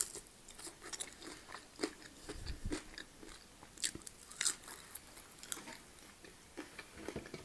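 A person chewing and biting food, with scattered crisp crunches, the loudest a little past the middle.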